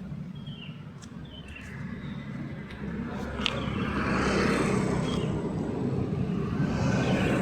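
Street traffic going by: a steady engine-and-tyre rumble that builds about three seconds in as vehicles pass close, with a second pass near the end.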